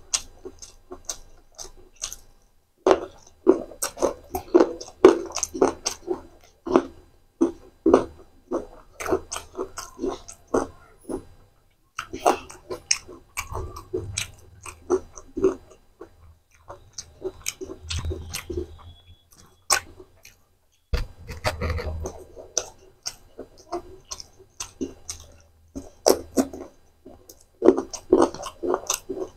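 Close-miked chewing of spicy macaroni and raw vegetables such as carrot slices: crisp, crunchy chews several a second, in runs broken by brief pauses.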